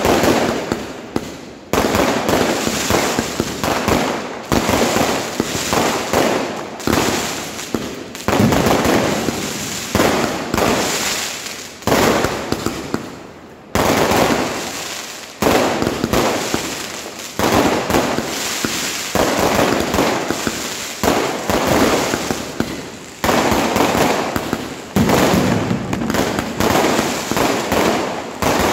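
Fireworks going off nonstop: a loud burst every one to two seconds, each followed by dense crackling that fades before the next one begins.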